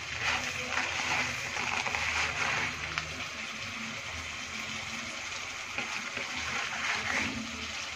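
Chicken pieces sizzling steadily as they fry in their own juices in a nonstick wok, while crisp fried onions are tipped in from a plate.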